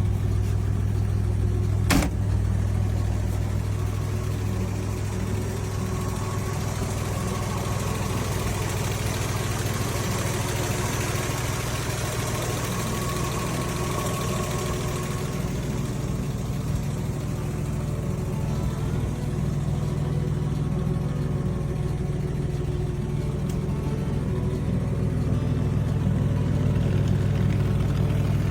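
Car engine idling steadily, the 235 straight-six of a 1952 Chevrolet, with a single sharp click about two seconds in.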